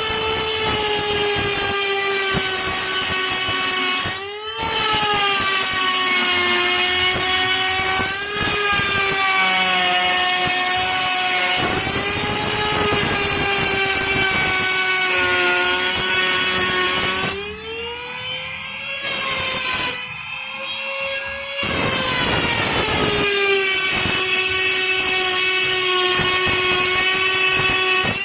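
Electric wood router cutting a circular speaker hole through a wooden box on a pivot jig: a loud high motor whine whose pitch sags and recovers as the bit bites into the wood. The sound drops off briefly about 4 seconds in, and twice more around 18 and 20 seconds.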